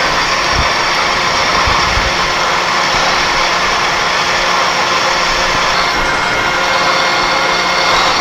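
Milling machine running steadily while a drill bit bores a hole through a plate of tough steel.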